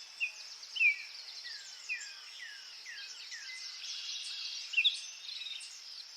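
Birdsong: one bird gives a run of short, falling chirps, about two a second, then several birds chirp and trill together over a faint steady hiss.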